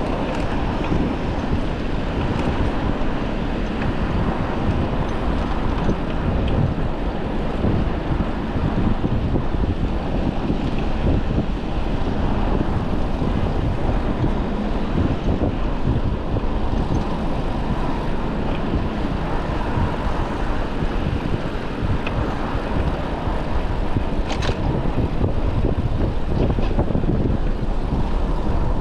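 Steady wind rumble on a chest-mounted action camera's microphone while cycling, over the running noise of road traffic, with one brief sharp click about three-quarters of the way through.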